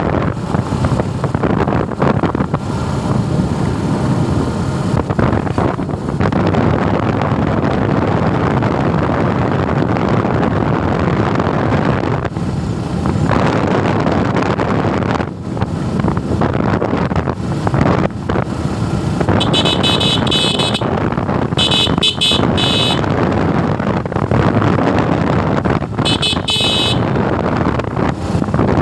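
Motorcycle riding noise: a steady rush of wind on the microphone over the running engine and road. In the last third a vehicle horn honks three times in short bursts.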